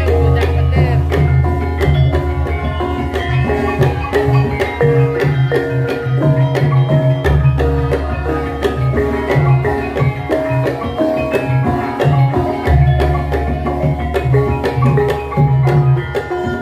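Javanese gamelan music: metallophones play quick runs of struck notes over kendang drum strokes. A deep, sustained low note comes in about seven seconds in and again near thirteen seconds.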